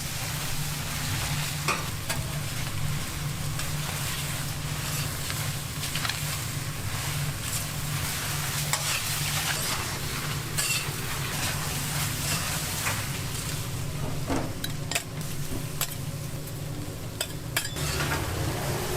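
Food sizzling on a hot iron griddle, with metal utensils stirring and scraping in sharp, scattered clicks, over a steady low hum.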